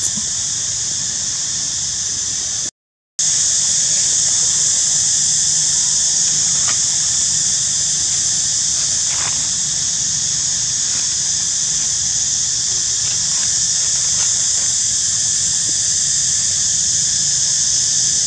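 Loud, steady high-pitched drone of insects, most likely a cicada chorus, with a brief cut to silence about three seconds in.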